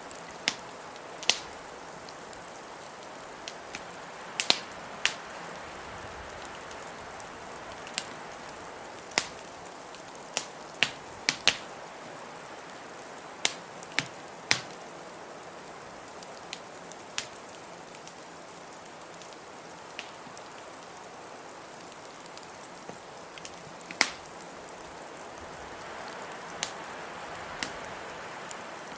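Wood fire crackling in a fireplace, with irregular sharp pops, over a steady hiss of blizzard wind.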